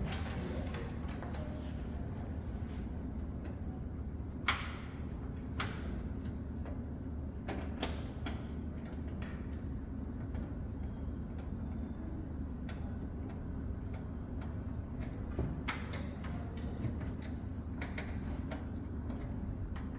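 Screws being driven back into the side cover of a desktop computer case: scattered small clicks and metal ticks from the screwdriver and screws, in clusters. A steady low hum runs beneath.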